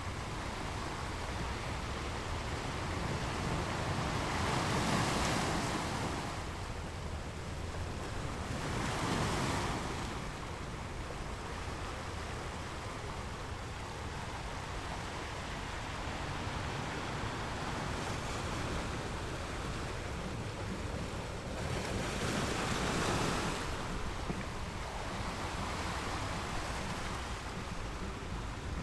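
Sea waves washing on a beach: a steady surf noise that swells three times as waves break, about five seconds in, near ten seconds and again around twenty-three seconds.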